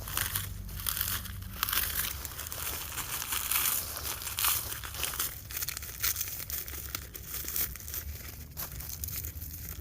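Dry corn leaves and husks crackling and rustling as dried ears of gem corn are pulled off the standing stalks. The crackling is busiest in the first half and thins out later.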